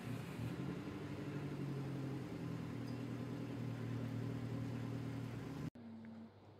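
An engine idling, a steady low hum of a few held tones. It cuts off abruptly near the end, leaving quiet room tone.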